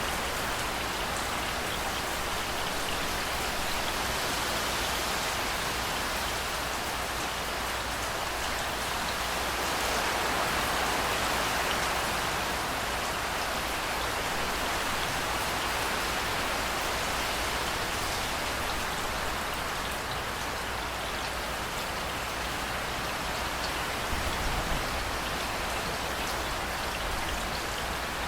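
Steady rain pouring onto hard surfaces, an even hiss that swells slightly about a third of the way through. A brief low rumble comes in near the end.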